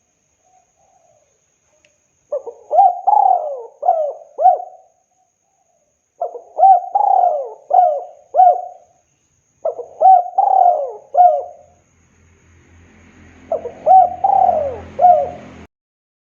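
Spotted dove (tekukur) cooing: four phrases of several coos each, one about every three and a half seconds. A low hum rises under the last phrase, and the sound cuts off abruptly near the end.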